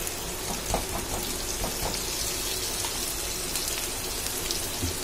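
Potato wedges and brinjal slices frying in hot oil in a pan: a steady crackling sizzle, with a few faint clicks in the first two seconds.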